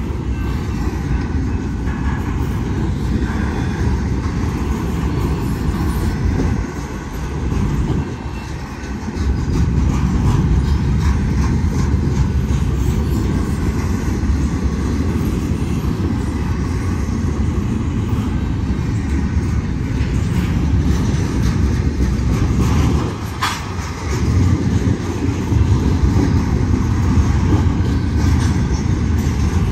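A double-stack intermodal train's well cars rolling past close by: a loud, steady rumble of steel wheels on the rails that dips briefly twice, with one sharp metallic click in the latter part.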